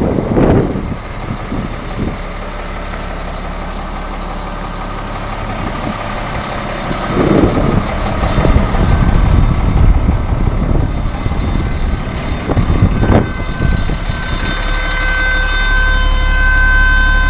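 Cat 725 off-road dump truck's diesel engine running, with a few short surges in its note. About two-thirds of the way through, a steady high-pitched tone comes in over the engine and grows louder, while the engine's low drone strengthens toward the end.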